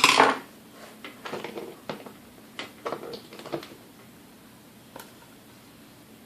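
Handling noise from working on a vintage stand mixer: a loud knock at the very start, then a run of light clicks and taps over the next few seconds and one more click about five seconds in.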